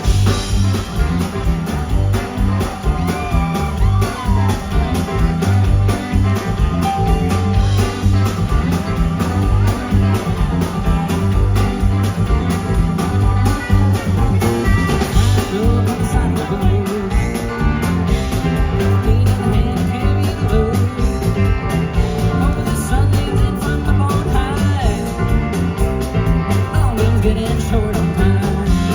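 Live country-rock band playing: electric guitar lines over bass and drums, loud and steady.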